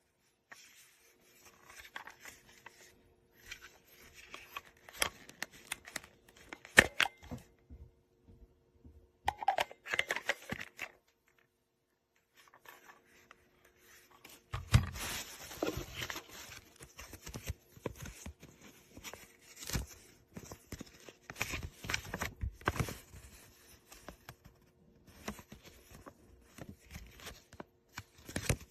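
Handling noises: irregular sharp clicks and rustling, scraping sounds, with a quiet gap about halfway through.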